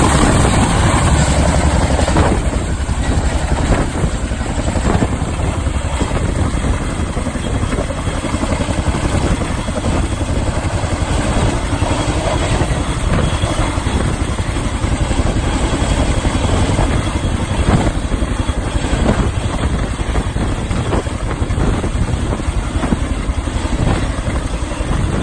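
Boeing CH-47D Chinook tandem-rotor helicopter running loud and close, its rotor blades beating in a rapid, even rhythm over the steady noise of its engines.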